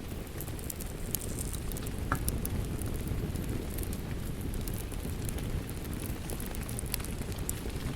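Wood fire crackling with scattered sharp pops and ticks over a steady low rumble of rain.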